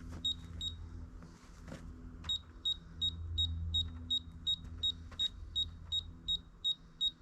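Laser level's detector beeping: short high beeps, two near the start, then an even run of about three a second from about two seconds in. A low steady hum runs underneath.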